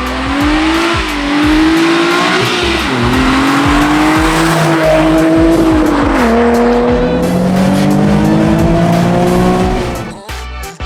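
Nissan 350Z's 3.5-litre V6 revving hard through a custom dual-valved X-pipe exhaust, the revs climbing and dropping several times with tyres squealing. The sound drops away about ten seconds in.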